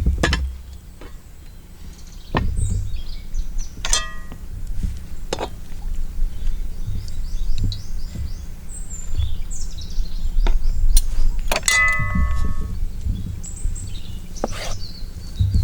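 Outdoor ambience: birds chirping, a low rumble of wind on the microphone, and two sharp metallic clinks that ring briefly, about four seconds in and again near twelve seconds.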